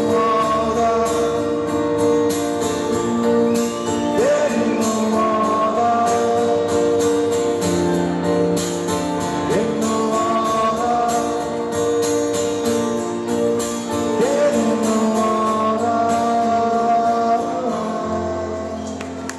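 Live rock band playing held chords, with guitar and singing and a few sliding notes.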